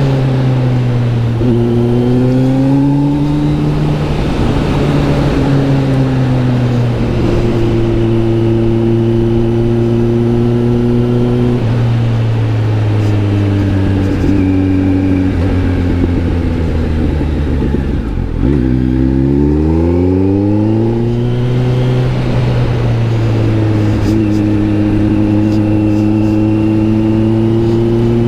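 Kawasaki Z900 SE's inline-four engine running through an SC-Project S1 aftermarket exhaust while riding, holding a steady note with gentle changes in pitch. About two-thirds of the way through, the revs drop and then climb quickly.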